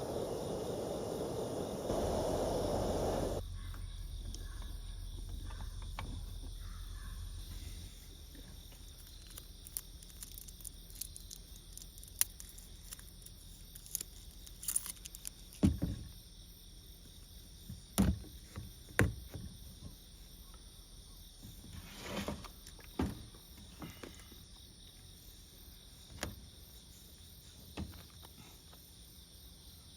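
Insects, likely crickets, chirping steadily at a high pitch, with scattered sharp clicks and knocks. A louder rushing noise in the first few seconds cuts off suddenly.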